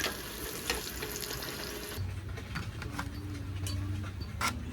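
Food sizzling in a frying pan as a steady hiss. About two seconds in it cuts off abruptly to a low steady hum with a few light clicks.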